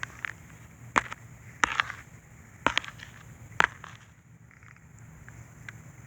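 A few crunching steps on dry leaves and twigs, four or five sharp crunches about a second apart.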